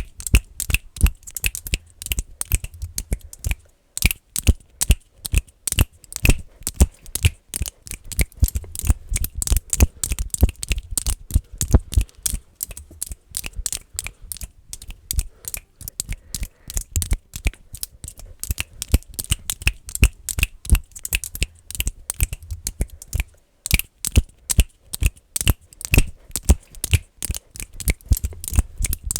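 ASMR finger clicking: rapid, fast and aggressive clicks close to the microphone, in a dense rhythm with two brief pauses.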